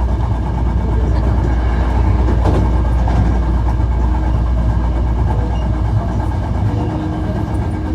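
Interior running sound of a Hankyu 1300 series electric train with a Toyo IGBT inverter: a steady low rumble of wheels on rail and motors under way. A steady hum joins near the end.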